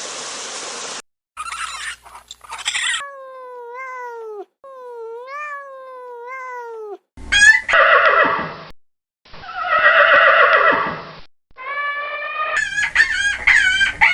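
A string of separate animal calls from different animals, one after another: two pitched calls gliding up and down, then two loud, harsh calls, and near the end a wavering, quavering bleat.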